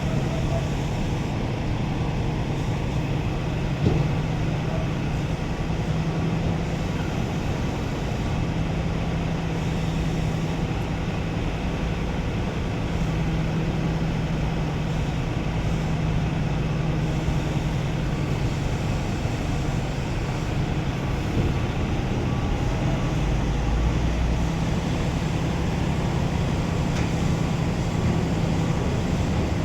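Container truck's diesel engine running steadily at idle, a low even hum, with a single brief knock about four seconds in.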